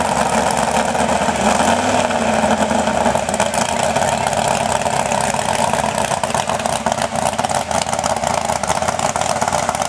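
Big-block Ford 460 V8, stroked to 502 cubic inches with dual carburettors, running steadily and loud.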